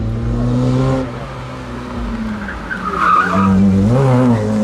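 Classic rally car's engine running hard at steady high revs, its pitch wavering and briefly rising and dipping about four seconds in.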